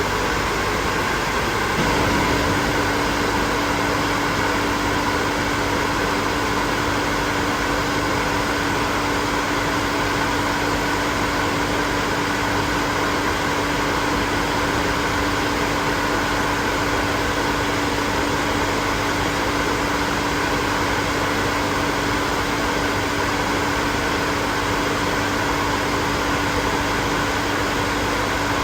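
Hair dryer running steadily, a constant rushing blow of air; a low steady hum joins in about two seconds in and holds.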